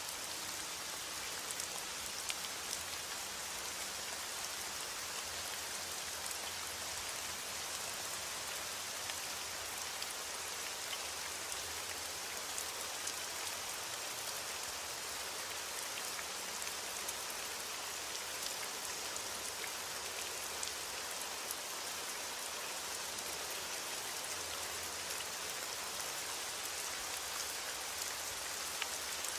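Heavy rain beating on a window: a steady, even hiss with scattered faint ticks.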